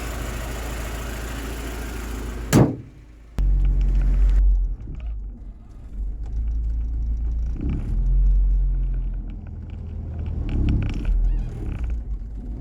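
Honda H23 VTEC four-cylinder engine idling, with one loud slam about two and a half seconds in as the hood is shut. Then the engine carries on as a deeper, low rumble.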